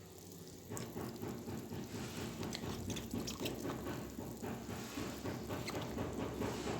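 Kitchen tap water running and splashing, with many small irregular drips and spatters.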